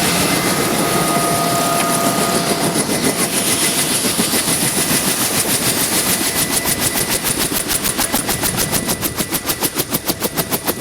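UH-1 Huey helicopter heard from on board: turbine whine and rotor noise, with the two-bladed main rotor's fast, even blade slap growing steadily stronger from about three seconds in.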